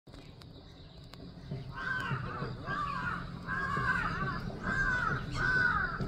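A bird calling five times in a row at an even pace, starting a little under two seconds in, each call about half a second long and arched in pitch.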